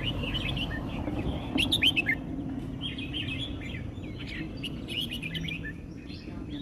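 Red-whiskered bulbul singing, a string of quick warbling, up-and-down phrases with a louder burst of notes about a second and a half in, over a steady low hum.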